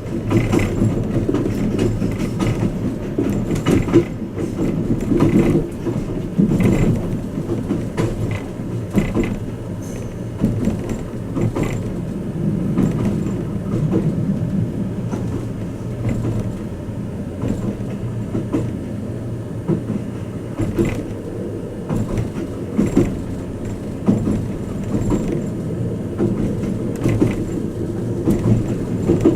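Twilight Express Mizukaze train running, heard inside a passenger cabin: a steady low rumble of wheels on rail and running gear, with scattered short clicks and knocks.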